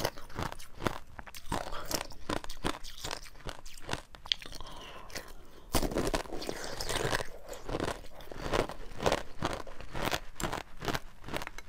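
A person chewing a mouthful of jelly with small beads inside, close to the microphone: dense, quick crunching clicks.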